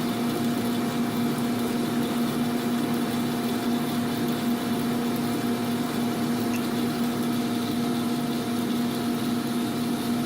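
Steady machine hum with a constant low tone and a fainter higher tone over a noisy rumble, unchanging throughout.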